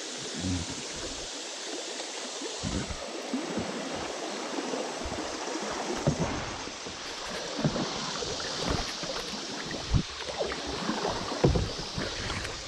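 Kayak moving down a river: a steady rush of water, with splashes and low bumps from paddle strokes every two to three seconds.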